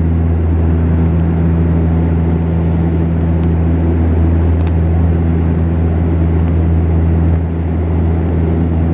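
Saab 340B's twin General Electric CT7 turboprop engines and propellers droning steadily, with a deep, even propeller hum under a rushing noise, as heard inside the cabin.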